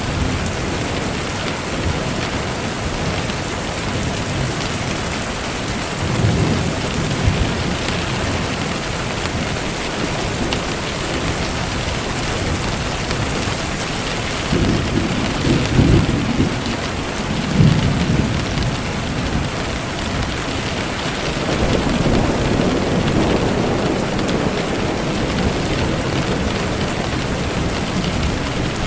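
Steady rain falling, with low rolls of thunder rumbling: briefly about six seconds in, again in the middle, and a longer roll a few seconds before the end.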